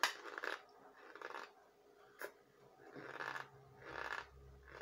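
Chewing a mouthful of compressed cornstarch chunks with the mouth closed: a squeaky, crunchy grind with each chew, about one a second.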